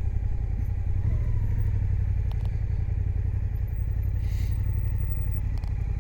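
Suzuki GSX-8S parallel-twin motorcycle underway, heard through a microphone inside a noisy helmet: a steady low rumble of engine and wind noise. A brief hiss comes about four seconds in.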